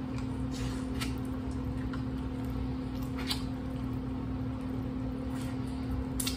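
Close-up eating of corn on the cob: soft, wet biting and chewing with short, faint kernel crunches every second or two, over a steady low hum.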